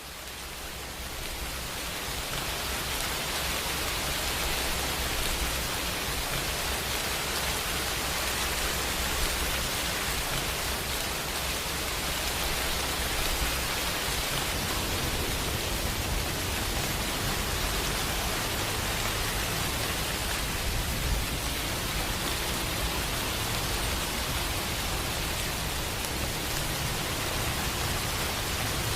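Steady rain, a dense even hiss that fades in over the first couple of seconds and then holds, with a low rumble underneath.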